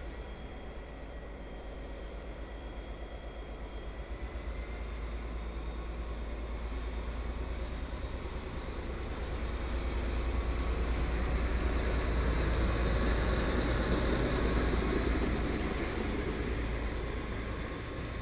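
A train passing: a deep rumble that builds, is loudest about two-thirds of the way through, then eases, with thin high whining tones above it.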